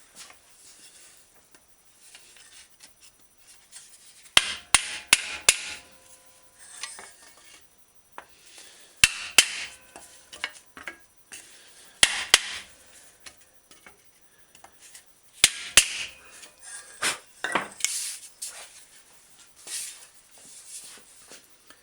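Hammer blows on a dented metal bicycle fender worked over a rounded wooden block to knock the dent out. The blows come in short groups: a quick run of four or five, then pairs every few seconds, then a few lighter taps near the end, each with a brief metallic ring.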